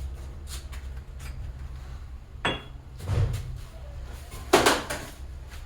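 A few separate knocks and clatters of objects being handled in a workshop, with a louder knock of something dropped about four and a half seconds in. A steady low hum runs underneath.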